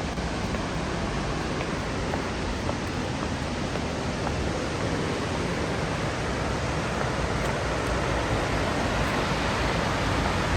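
Steady roar of falling water from Burney Falls, a large waterfall, a continuous even rush with a heavy low rumble.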